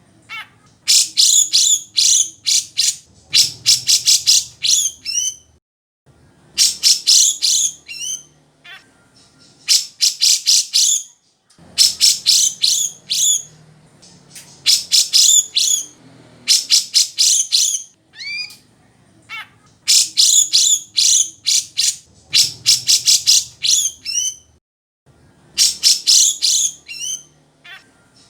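Grey-cheeked bulbul (cucak jenggot) singing: repeated bouts of rapid, high-pitched notes, each a second or two long, with short pauses between.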